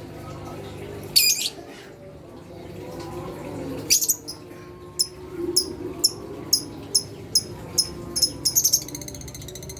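Lovebirds calling: a short shrill call about a second in, then a run of sharp high chirps about two a second that quickens into a rapid chattering trill near the end.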